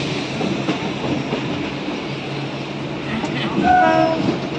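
Electric suburban EMU train running on the track, with a steady rumble and wheel-on-rail clatter from the coach. A short tone sounds about three and a half seconds in.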